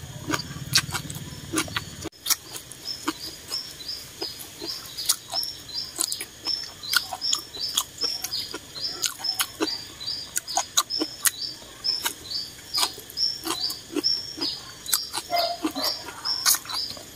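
Close-up eating sounds: wet mouth clicks and slurps from chewing a glass noodle and vegetable salad. Behind them a small bird chirps steadily, about three short high chirps a second.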